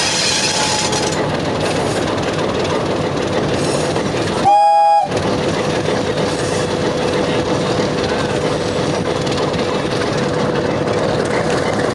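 Train running along the track with a steady rumble and a faint steady hum, heard from the locomotive roof. About four and a half seconds in, the locomotive's roof-mounted air horn gives one short blast of about half a second, the loudest sound.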